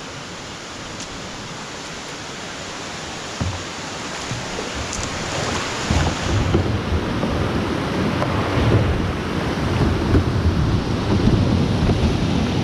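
Creek water rushing over rocks as the kayak runs a rocky drop, growing louder and heavier about halfway through, with low rumble on the microphone.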